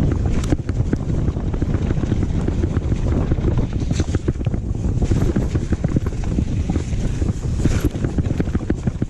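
Wind buffeting the microphone over the rattle and clatter of a downhill mountain bike on a rough trail, with many small knocks throughout.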